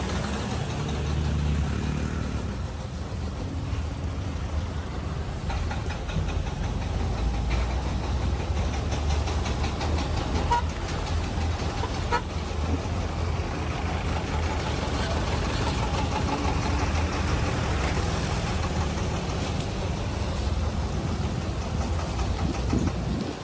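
Vehicle engines running at low speed in slow road traffic, a steady low rumble.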